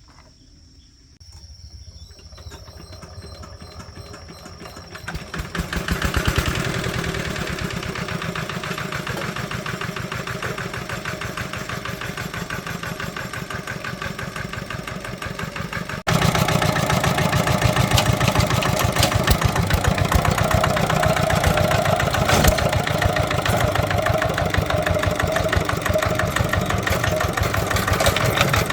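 Farm tractor engine running with a rapid, even chug. It comes in about a second in, builds up to about six seconds, then runs steadily, and jumps abruptly louder about halfway through.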